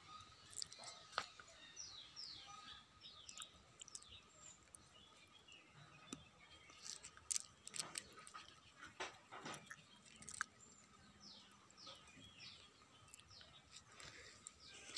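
Small birds chirping faintly in short runs of quick falling high notes, once near the start and again about eleven seconds in, with a few scattered clicks.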